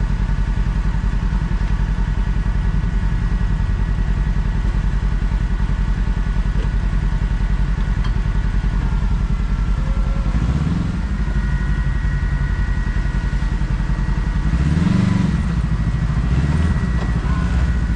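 Kawasaki KRX side-by-side's parallel-twin engine running steadily at trail speed, with a steady high whine over it. It surges briefly about ten seconds in and again near fifteen seconds.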